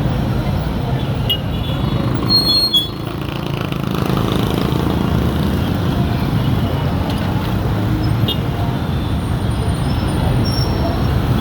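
Street traffic with motorcycle taxis: engines and road noise in a steady rumble, with a brief high-pitched tone about two and a half seconds in.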